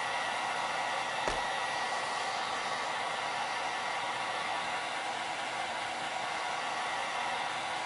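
Electric heat gun blowing steadily, with a faint high whine, as it melts wax into a cork rod grip. One light knock about a second in.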